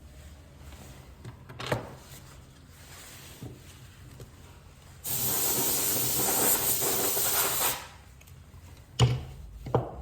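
A burst of hissing spray, about two and a half seconds long, that starts and cuts off abruptly about halfway through. A few sharp taps come before and after it, typical of small tools being handled on a work bench.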